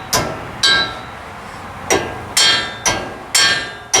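A hammer striking steel seven times at an uneven pace, each blow ringing briefly: tapping the kingpin lock pins home in a medium-duty truck's steering knuckle.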